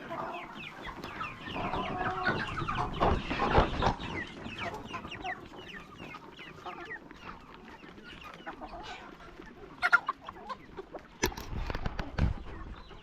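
Domestic chickens clucking and calling in a flock: many short overlapping calls, busiest in the first few seconds. A few sharp knocks stand out near the end.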